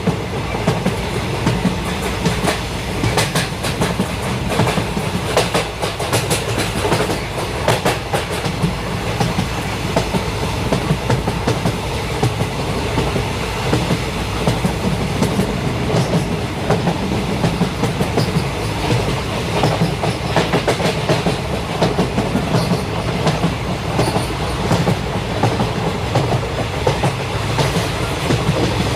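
Train running on rails: a steady low rumble with the wheels clattering over rail joints throughout.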